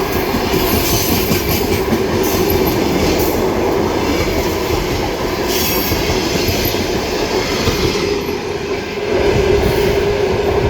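Passenger train hauled by an EP1M electric locomotive passing at speed without stopping: steady rolling wheel-on-rail noise with a steady tone running through it, growing louder near the end.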